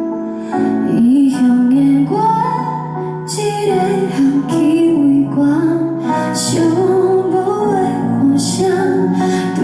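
A female voice singing a slow song over instrumental backing music.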